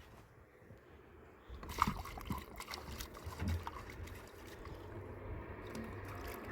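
Water trickling, with scattered small clicks and knocks starting about a second and a half in.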